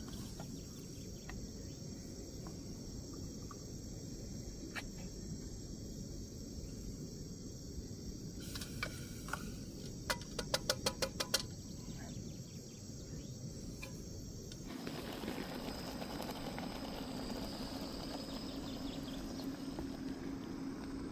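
Steady outdoor background with a high, even insect chirring. About ten seconds in there is a quick run of about eight clicks, and from about fifteen seconds a louder steady hiss joins in.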